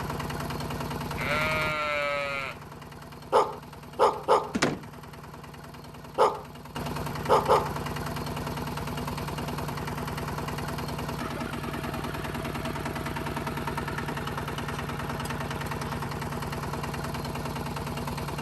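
Animal calls over a steady low hum: one drawn-out, falling call about a second in, then a run of short, sharp calls between about three and eight seconds in.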